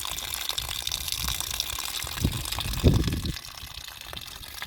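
Running water, a steady rushing, with low thuds about two and three seconds in.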